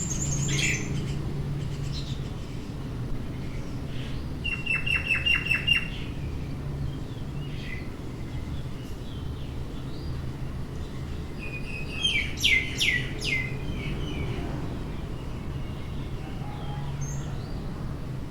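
Small birds chirping: a quick run of repeated chirps about five seconds in, another burst of falling chirps about twelve seconds in, and scattered single calls between. A steady low rumble runs underneath.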